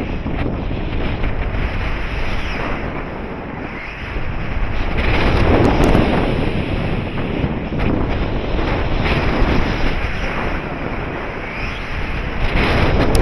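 Wind rushing over the microphone during a paraglider flight, surging and easing every few seconds, with a few faint ticks.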